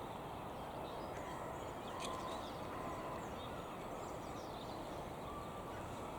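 Faint, scattered calls of distant birds over a steady low rush of wind.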